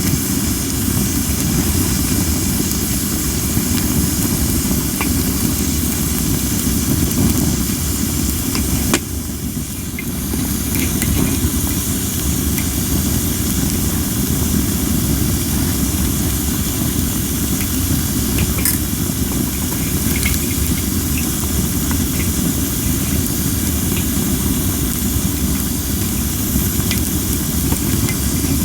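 Cherry-wood campfire on a Coleman Fire Disc hissing steadily, with scattered sharp crackles and pops: the hiss comes from under-dried logs. Strong wind rumbles on the microphone, and insects chirp in the background.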